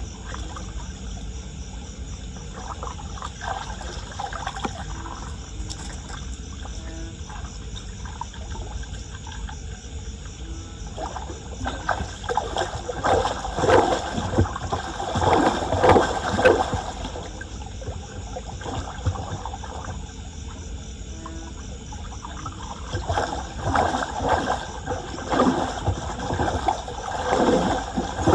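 Floodwater at a clogged street storm drain splashing and trickling. There are two louder spells of irregular splashing, one about halfway through and one near the end.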